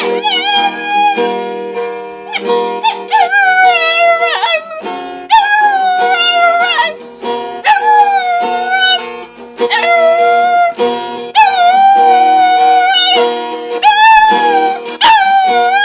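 Dog howling along to capoeira music: a string of long, wavering howls of a second or two each, with short breaks, over the steady tones of the accompanying music.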